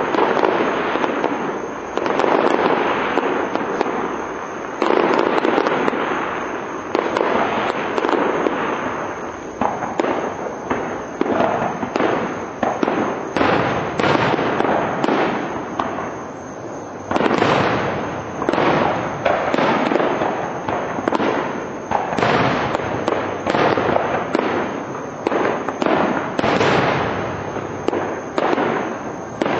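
Aerial firework shells bursting in a steady barrage, each sudden bang trailing off, with clusters of quicker, sharper reports around the middle.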